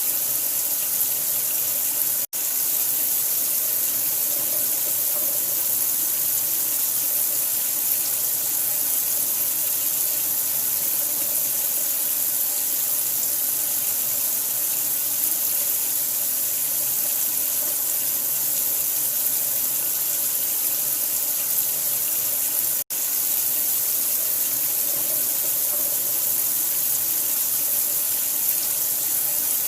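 Steady rushing water, an even hiss strongest in the high end, cutting out for an instant about two seconds in and again about 23 seconds in.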